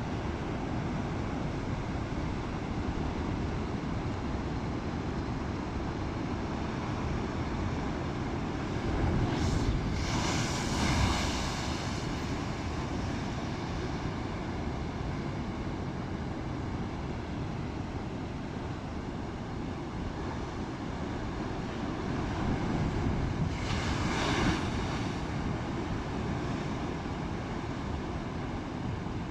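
Rough sea: a steady rush of wind and waves, with wind buffeting the microphone. Twice, about ten seconds in and again some fourteen seconds later, a louder surge of breaking water rises and falls away.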